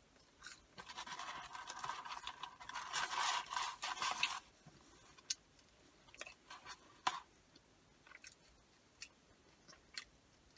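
A person chewing food close to the microphone: a dense run of crunchy, crackling chewing for the first few seconds, then scattered small clicks and mouth smacks.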